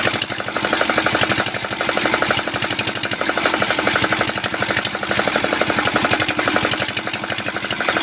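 Small 6 hp single-cylinder diesel engine running at a steady speed, its firing beats a fast, even chugging knock.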